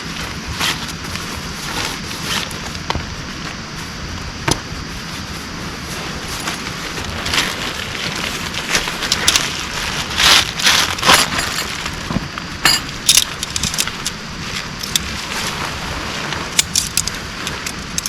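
Steady rain hiss with irregular sharp clinks and knocks on top, most frequent and loudest about ten to thirteen seconds in.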